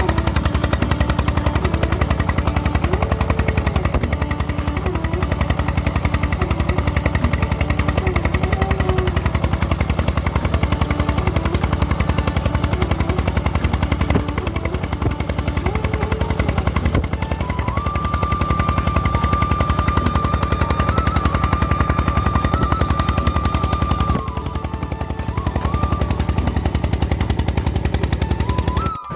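Petter-type single-cylinder diesel engine running a tubewell pump, its firing strokes coming as a rapid, even knocking. A steady high tone joins in from the middle for several seconds.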